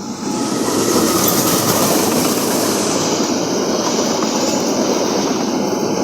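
Wijaya Kusuma passenger train, hauled by a CC 206 diesel-electric locomotive, passing by. A loud, steady rush of wheels on rail swells in just after the start and holds.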